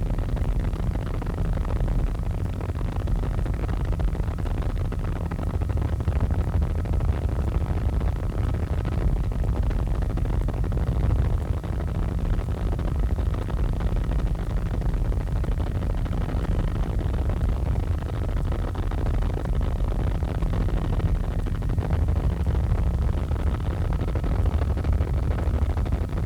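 Helicopter running in flight, heard from inside the cabin: a steady low rumble of engine and rotor noise that holds at an even level.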